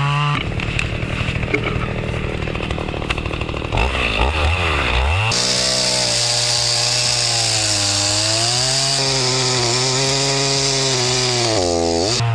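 Chainsaw running and cutting wood, its engine note sagging and picking up again as the chain loads in the cut, with a steady hiss of cutting added from about five seconds in.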